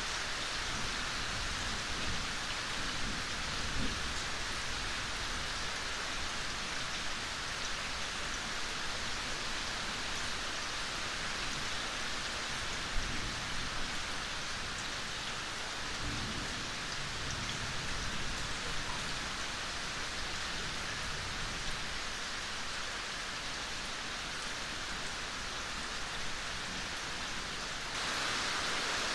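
Steady, gentle rain falling, an even hiss of many drops. Faint low rumbles come a few seconds in and again about halfway, and the rain gets slightly louder near the end.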